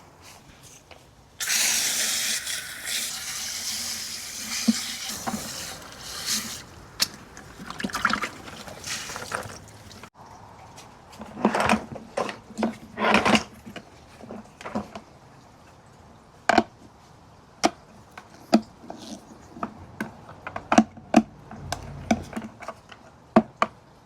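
Water running for a few seconds, rinsing parts of a canister filter, then fading out. After that come a string of separate sharp clicks and knocks as the plastic filter parts are handled.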